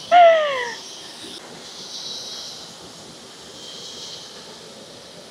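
A woman's short exclamation sliding down in pitch, then a steady high-pitched hiss of jungle ambience.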